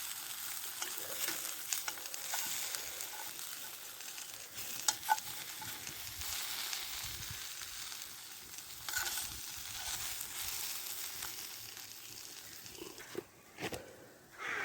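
Food sizzling over a campfire: a steady hiss with scattered sharp clicks, two of them close together about five seconds in.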